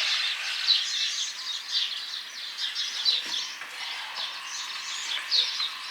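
Birds chirping, a steady run of quick, overlapping high calls.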